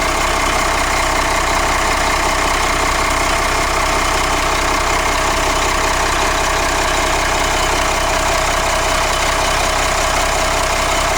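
Rear-mounted Cummins diesel engine of a 1997 Blue Bird TC2000 RE school bus idling steadily, still cold shortly after starting. It runs fairly quietly for a diesel.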